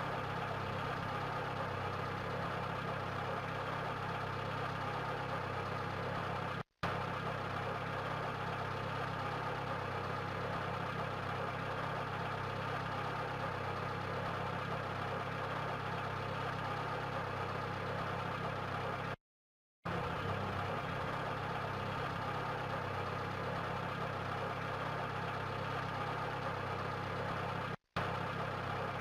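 Vehicle engine running steadily, a low even hum with a broad hiss above it, broken by three brief dead silences.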